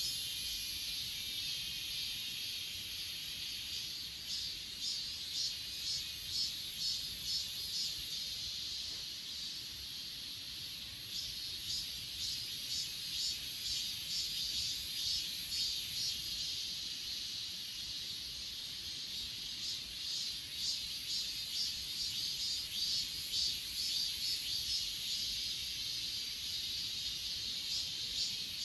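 Chorus of grass insects such as crickets, a dense high-pitched chirring with a rapid, regular pulse that goes on steadily throughout.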